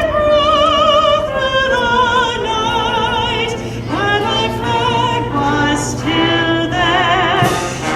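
A solo voice singing slow, long-held notes with heavy vibrato in an operatic style, over a public-address system.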